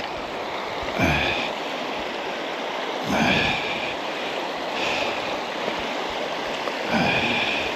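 Small moorland river rushing steadily over rocks, with a man breathing hard or grunting about four times as he crosses on stepping stones.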